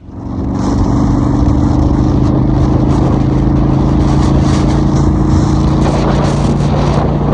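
Motorcycle engine running at a steady pitch under a loud rush of wind noise, building up over the first second and then holding steady.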